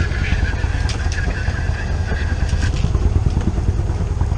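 Sailboat's inboard engine running steadily with a low rumble while motoring in to anchor.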